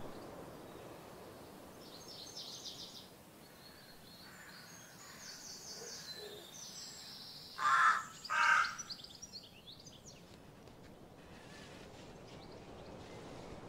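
Bird calls over a steady outdoor background noise: fainter high chirps and trills, then two loud calls in quick succession a little past the middle.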